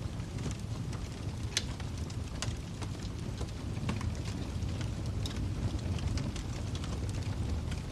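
Wood fire crackling in a fireplace: a steady low rumble of burning with irregular small pops and snaps, one sharper pop about a second and a half in.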